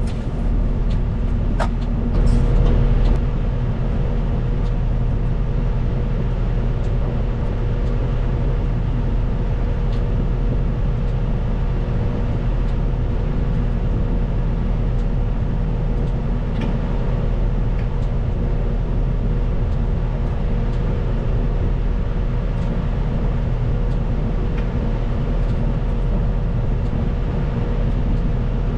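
Caterpillar 926M wheel loader's diesel engine running steadily under a thin, steady whine, with scattered light clicks and knocks. It briefly gets louder about two seconds in.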